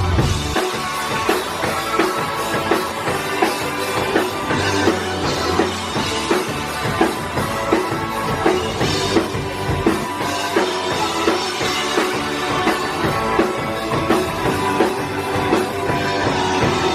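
Live punk rock band playing an instrumental passage: a drum kit keeping a steady beat under electric guitars and bass.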